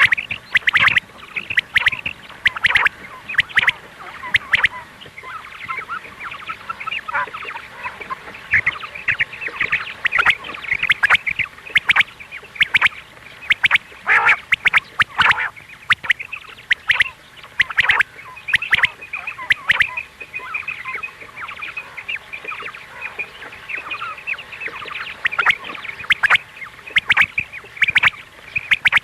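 Quail calling: many short, sharp calls repeated in quick succession, sometimes overlapping, the kind of call track used to lure quail.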